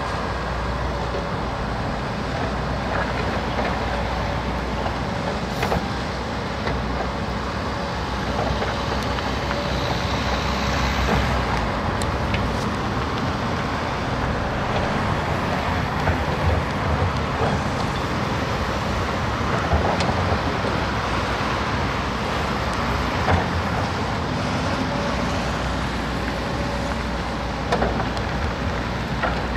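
Heavy diesel machinery running steadily, the engines of a truck and a tracked excavator working, with a few sharp knocks here and there.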